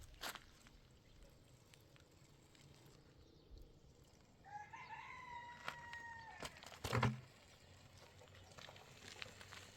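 A rooster crowing once, one call of about two seconds that starts low and holds level. A loud knock follows just after it ends.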